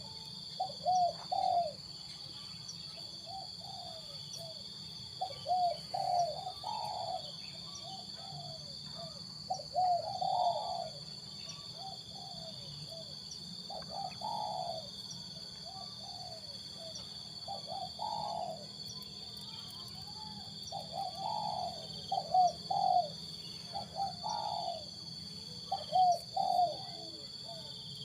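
Spotted doves cooing: short phrases of a few coos repeat every three to four seconds, some louder than others, over a steady high-pitched whine.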